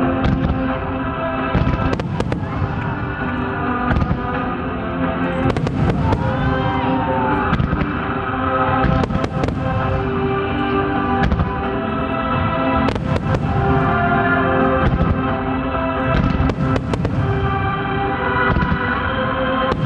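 Aerial fireworks shells bursting one after another at irregular intervals, each a sharp bang, over music with long held notes that plays throughout.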